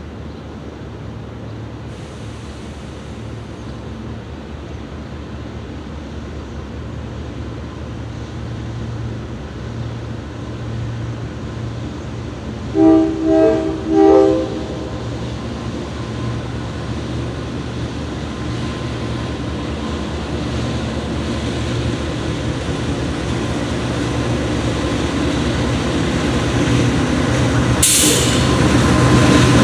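Diesel freight locomotives approaching, their engine drone growing steadily louder. The horn sounds three short blasts in quick succession about halfway through, and a brief sharp hiss comes near the end as the train draws close.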